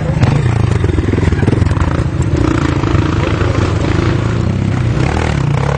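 Enduro motorcycle engine running steadily and loudly, its pitch shifting a little partway through.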